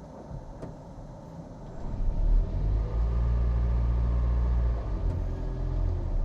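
Toyota Aqua hybrid's 1.5-litre four-cylinder petrol engine starting up about two seconds in and running steadily, with no rattle to be heard now that the loose part has been bonded solid with J-B Weld. It eases back a little near the end.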